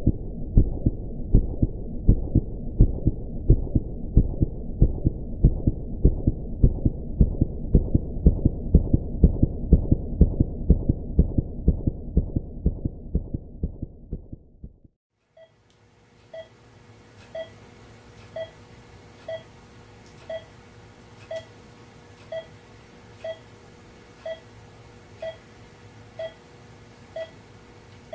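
A fast heartbeat sound effect, low beats at about two to three a second, fading out about halfway through. Then a hospital heart monitor beeps about once a second over a steady hum.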